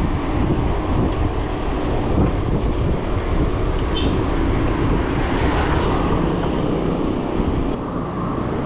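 Steady road and traffic noise mixed with wind rumble on the microphone from a moving bicycle, with a brief faint high chirp about four seconds in.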